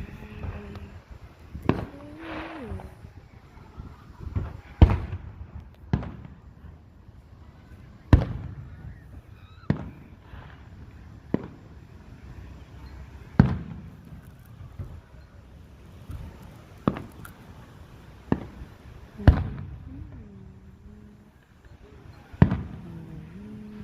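Fireworks going off: about a dozen sharp bangs at irregular intervals, several a few seconds apart, some trailing off in a short rumbling echo.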